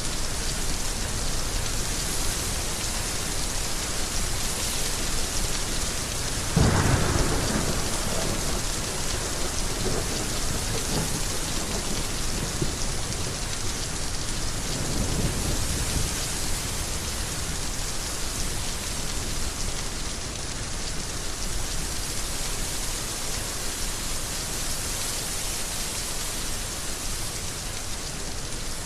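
Heavy rain falling steadily, with a sudden loud clap of thunder about six and a half seconds in and fainter rolling rumbles that follow about ten and fifteen seconds in.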